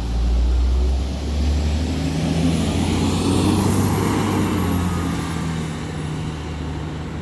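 Blue Bird rear-engine school bus running and driving past, a steady low engine drone with a wash of engine and road noise that builds to a peak about three to four seconds in, then fades.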